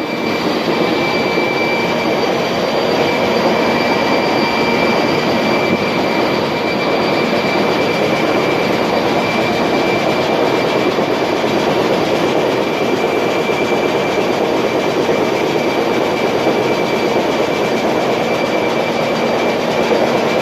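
Steady, loud machinery noise of a tanker ship's engine room, with a constant high whine running through it.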